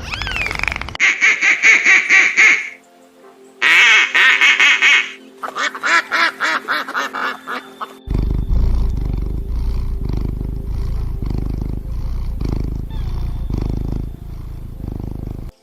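Ducks quacking in three quick runs of rapid calls, followed by several seconds of music with a regular beat.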